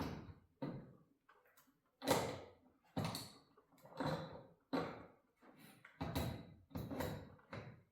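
A series of metal clanks and knocks, about one a second and each ringing briefly, as garage door torsion spring hardware is fitted back together on the shaft.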